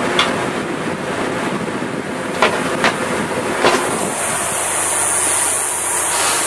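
Blendtec Total Blender running inside a switched-on microwave, a loud steady noise, with three sharp cracks in the middle and a high hiss building in the second half.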